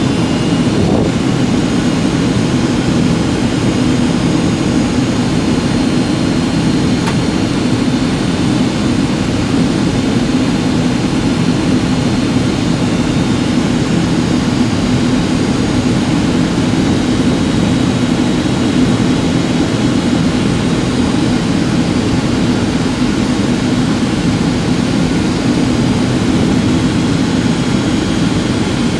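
Boeing 757-200 jet engines and rushing air heard as steady cabin noise in flight, with a few faint steady high whining tones above the low rumble.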